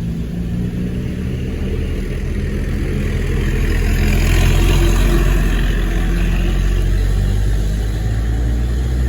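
Vehicle engine running steadily, with road noise swelling to its loudest about four to five seconds in as traffic passes close by.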